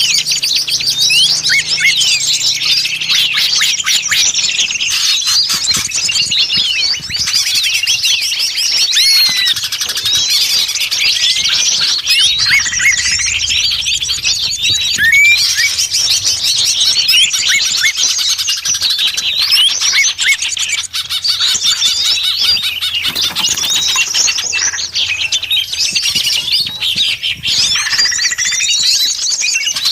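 A busy chorus of many small songbirds chirping and twittering at once: dense, overlapping high chirps and quick rising and falling notes with no pause, the kind of noisy flock recording played as a lure to call small birds down.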